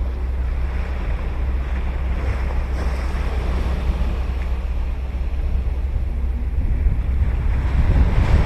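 Ocean surf washing onto a sandy beach, a continuous noisy wash over a deep steady rumble, swelling a little louder near the end as a wave breaks.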